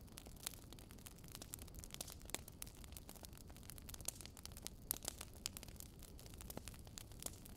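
Wood fire crackling in a fireplace: irregular sharp pops and snaps, a few louder than the rest, over a soft steady low rumble.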